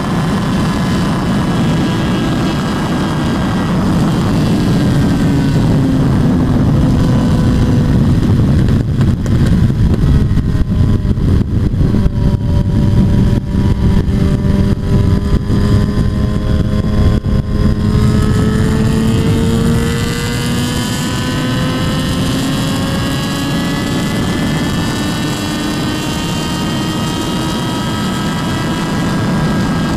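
Motorcycle engine under way with wind rushing over the microphone. The engine's pitch drops over the first third, then climbs steadily as the bike speeds up again, while wind buffeting is heaviest in the middle.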